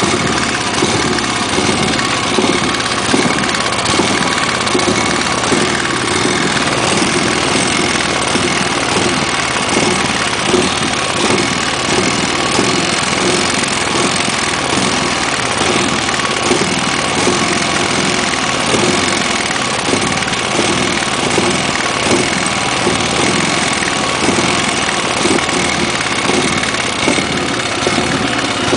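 Robin EY15D single-cylinder four-stroke engine of a tamping rammer idling at low speed, with a rapid even pulsing. Its carburettor's slow circuit runs lean, which the owner takes for the cause of its hunting at low speed.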